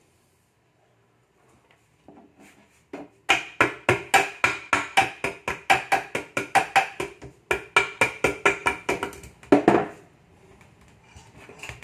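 Rapid hammer taps on the Honda engine's casing to split it apart, about four or five blows a second in two runs with a short break, ending in a heavier blow.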